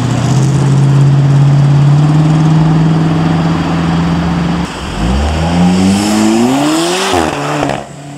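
Classic Ford Mustang accelerating away from traffic lights, its engine note steady and slowly rising. About five seconds in, the sound cuts abruptly to another car's engine revving up in rising sweeps.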